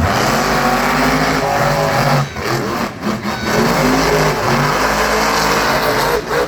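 Monster truck engine revving hard, its pitch rising and falling as the throttle is worked, with brief lifts off the throttle about two and three seconds in.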